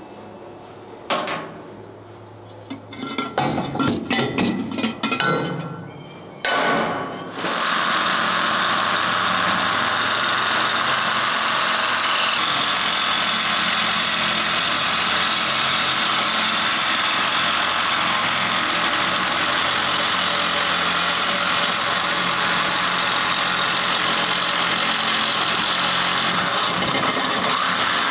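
Metal parts clanking and knocking for the first few seconds, then a handheld power tool starts cutting steel, running with a steady, loud hissing noise.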